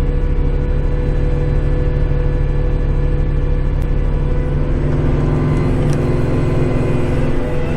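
Kubota compact tractor's diesel engine running steadily under load while driving a snowblower, heard from inside the tractor cab.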